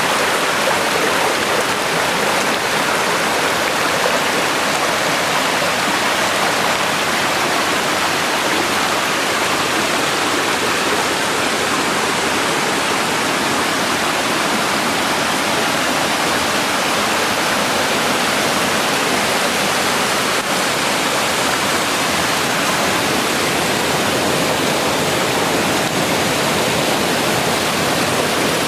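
Fast-flowing water rushing and pouring, loud and steady without a break.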